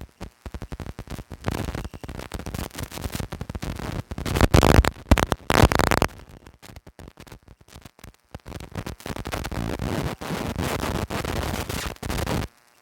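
Rough, crackling noise buffeting the microphone in uneven surges, loudest around five seconds in, cutting off abruptly near the end.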